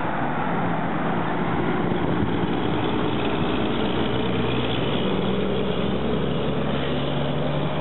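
Heavy truck's diesel engine running steadily close by, a low hum that firms up about a second in, over a rush of wind and road noise.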